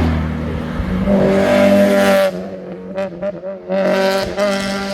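Performance car accelerating hard past, its engine note held high and then cutting off about two seconds in. A few short sharp cracks follow, and the engine pulls hard again near the end.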